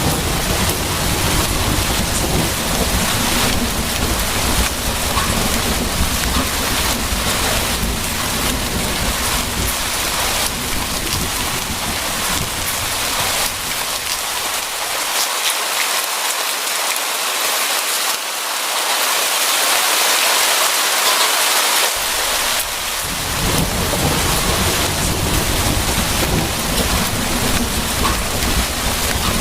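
Steady heavy rain with a low rolling thunder rumble underneath. The rumble drops away for several seconds past the middle while the rain hiss swells, then comes back.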